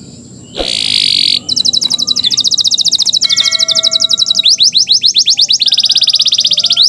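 Domestic canary in full song. A short harsh buzzy note comes about half a second in, then long unbroken runs of rapid high trills, with a stretch of slower repeated rising sweeps partway through, before the fast trill returns.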